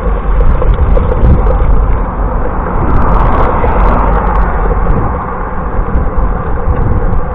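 Wind buffeting the microphone and road noise while riding a bicycle, a loud continuous rumble that swells a little in the middle.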